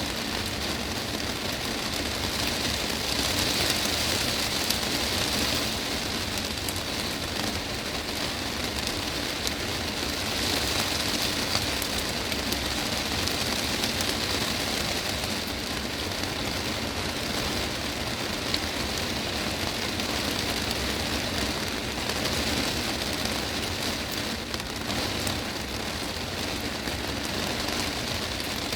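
Heavy rain drumming steadily on the glass roof of a greenhouse, a dense even patter that swells and eases slightly every few seconds.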